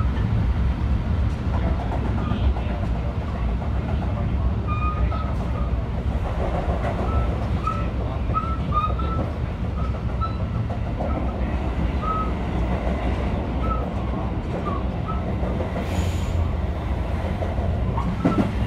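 Running noise inside a JR 223 series 2000 electric train car: a steady rumble of wheels on rail with short high squeaks every second or so. It is the rolling noise that the recording sets out to capture as the sound of a flat-spotted wheel.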